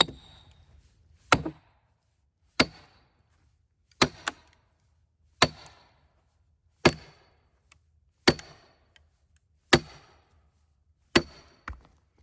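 Steel splitting wedges being driven into a cedar log with a hammer: nine ringing metal-on-metal blows, about one every one and a half seconds, with a lighter extra knock twice.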